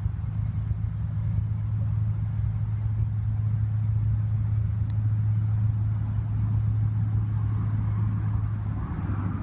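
Walkera QR X350 Pro quadcopter in flight, its motors and propellers giving a steady low drone that shifts near the end as the throttle changes.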